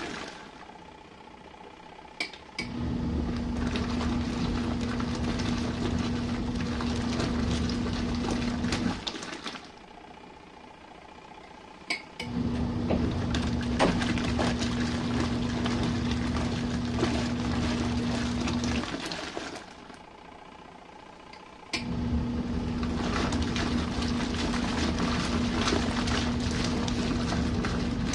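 Compact RV washing machine in its main wash: the wash motor hums and the water sloshes in runs of about six seconds, with pauses of about three seconds between them. A click comes just before each of the three runs.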